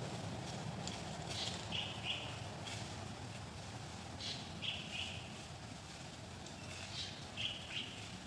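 A bird chirping in three short bursts, each a quick run of high notes, over a steady low background hum.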